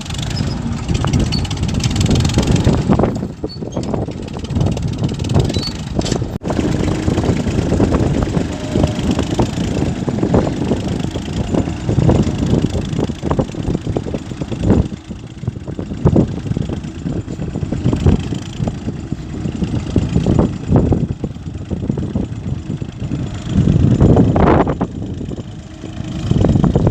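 Massey Ferguson tractor's diesel engine running, its loudness rising and falling unevenly with repeated short surges.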